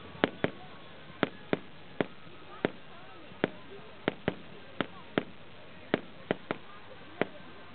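Fireworks display: a rapid, uneven string of sharp bangs from aerial shells bursting, about fifteen in under eight seconds, often two close together.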